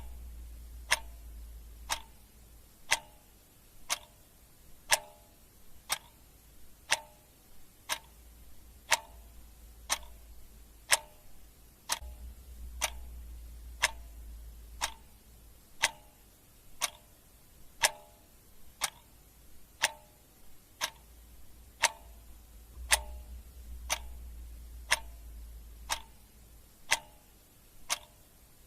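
Clock ticking steadily, one tick a second, with a faint low hum swelling and fading underneath.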